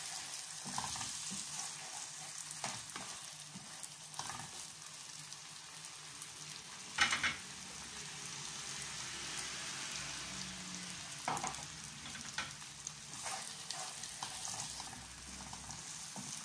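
Rice, onion and tomato sauce sizzling in a nonstick frying pan with a little water added, a spatula scraping and stirring through it now and then. One louder scrape comes about seven seconds in.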